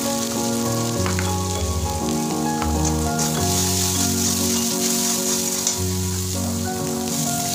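Masala sizzling in hot oil in a metal kadai as a spatula stirs it, with a few light clicks of the spatula against the pan. Background music with changing bass notes plays over it.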